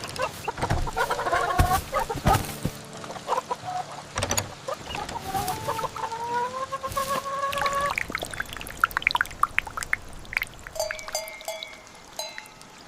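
Chickens clucking and calling, with a long call rising slightly in pitch in the middle and short clucks near the end, over knocks and clatter in the first few seconds.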